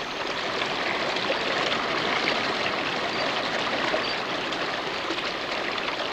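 A stream running steadily, a continuous splashing of flowing water.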